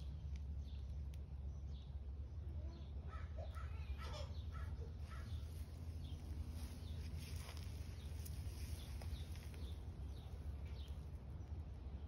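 Birds calling: many short calls scattered through, busiest in the middle, over a steady low rumble.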